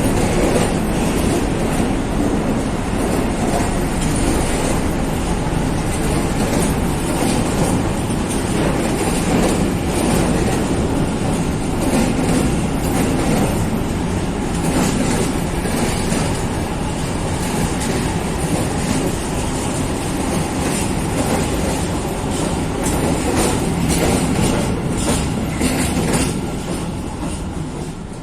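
Freight train of coal wagons rolling past, a steady rumble of wheels on the rails with rapid clacking over the rail joints. The sound eases off near the end as the train goes by.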